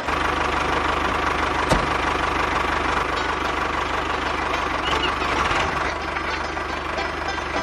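A motor running steadily with a fast, even pulsing rhythm. A single sharp click comes a little under two seconds in.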